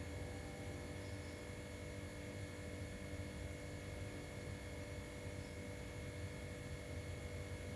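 Faint steady electrical hum with hiss, unchanging throughout, with no distinct event.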